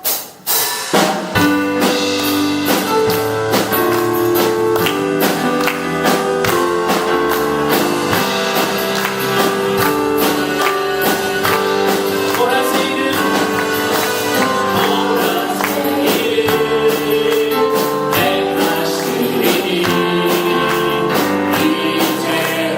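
Upbeat Korean worship song with singing over a band, carried by a steady percussive beat.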